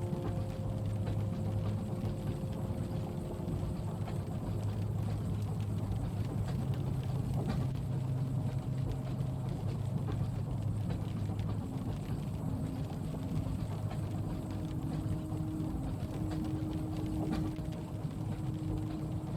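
Steady train-carriage ambience: the low rumble of a train running, with a humming drone that shifts in pitch and a soft hiss of rain over it. Two faint clicks come about a third of the way in and near the end.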